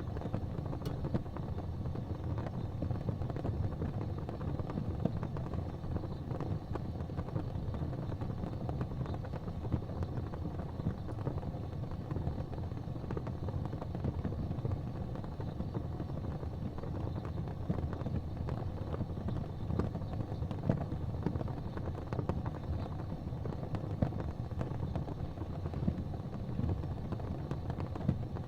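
Gas fireplace flames burning with a steady low rumble, dotted with faint scattered ticks.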